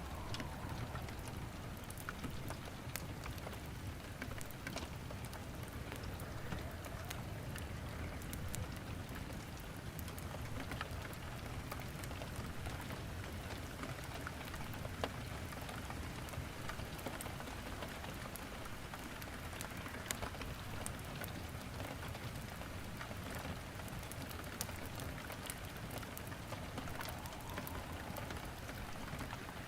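Steady rain with scattered sharp crackles and pops of burning wood in a fireplace, one louder pop about halfway through.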